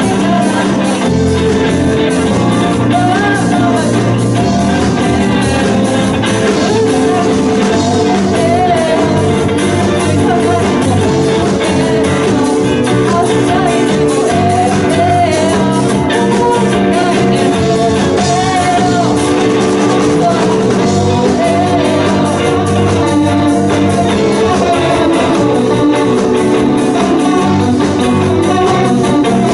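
Loud live band music with keyboard and guitar, playing continuously.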